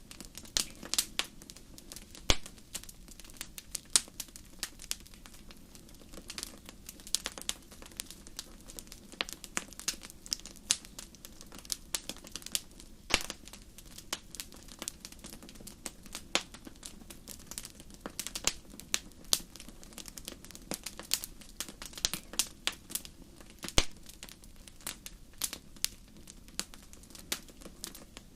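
Fire in a fireplace crackling, with frequent irregular pops and snaps over a low steady hiss.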